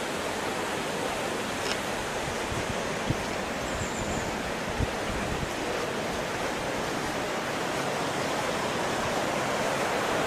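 Steady rush of a fast-flowing river, an even wash of water noise, with a few brief low thumps.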